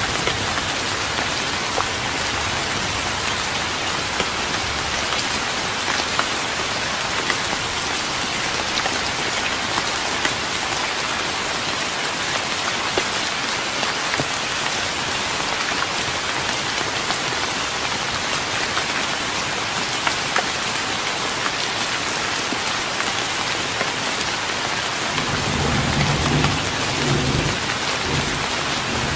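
Steady rain falling on a wooden deck, with many separate drops ticking through the hiss. A low rumble of thunder comes in about 25 seconds in and lasts a few seconds.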